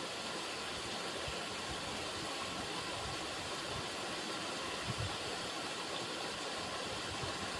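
River water running: a steady, even rush, with a few brief low thumps, the clearest about five seconds in.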